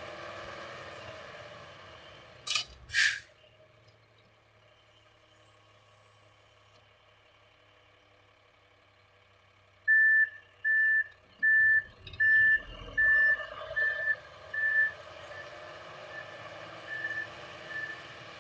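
A heavy truck's engine running, two short sharp hisses like air brakes, then its reversing alarm beeping steadily about once every 0.8 seconds, fading toward the end.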